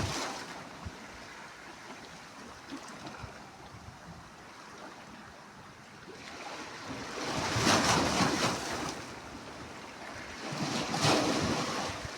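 Sea waves breaking: a steady wash of surf, with two louder waves crashing in, one about seven seconds in and another near the end.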